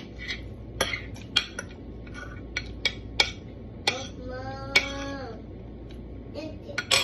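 Spoon and fork clinking and scraping against a plate during eating, a dozen or so sharp clicks at uneven intervals. About four seconds in, a voice gives one held hum lasting just over a second.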